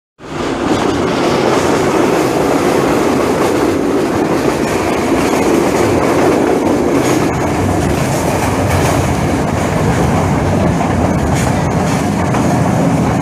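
Passenger train running at speed, heard from inside a carriage through an open window: a loud, steady rumble of wheels on rails, with a few sharp clicks in the second half.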